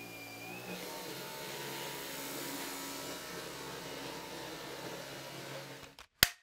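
Dyson Gen5outsize cordless vacuum running steadily with a whine, its tones shifting about a second in. Near the end the sound cuts off and a single sharp click follows.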